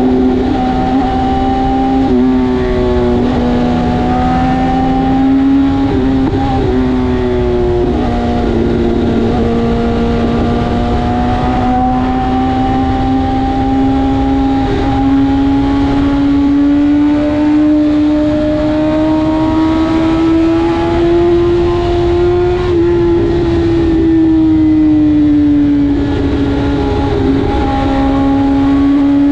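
BMW S1000RR's inline-four engine running at steady high revs on the move, its pitch drifting gently up and down, with a drop about eight seconds in and a slow fall near the end, over a low rush of wind noise.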